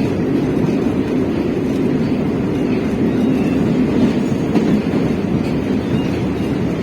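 Moscow metro train running between stations, heard from inside the carriage: a steady rumble of wheels on rails and running gear, with no clear rhythm of joint clicks.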